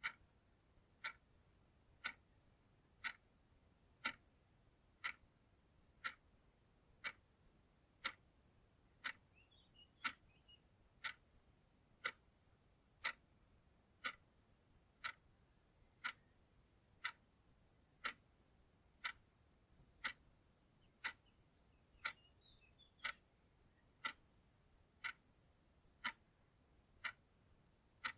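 Clock ticking steadily, one crisp tick each second.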